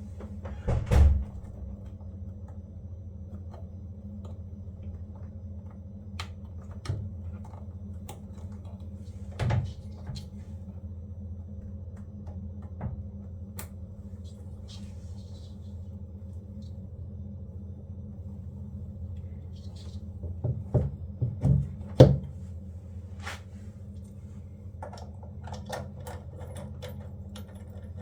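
Scattered knocks and clatter of parts being handled during work on a washing machine, over a steady low hum. The loudest knocks come about a second in and in a quick cluster a little past the twenty-second mark.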